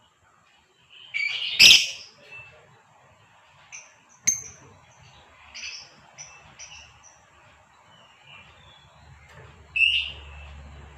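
Female lovebird calling: a loud, sharp shriek about a second and a half in, a run of short high chirps, then another loud call near the end.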